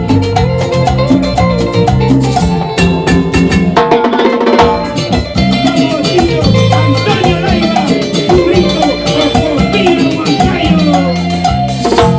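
A salsa band playing, with drums and percussion over a steady bass line.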